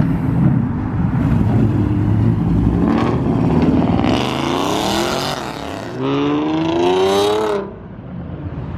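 Car engine running and accelerating, its pitch rising about four seconds in and again more strongly about six seconds in, then dropping off sharply near the end.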